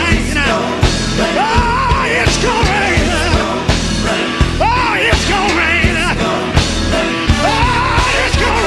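Live gospel quartet song: a lead vocal sings and shouts in long, wavering runs over a band with a steady drum beat and bass.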